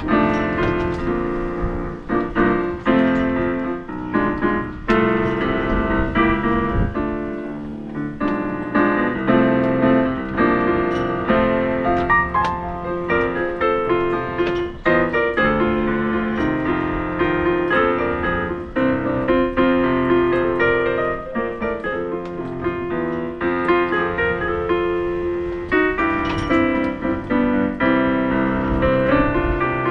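Background music: piano playing a flowing melody with chords.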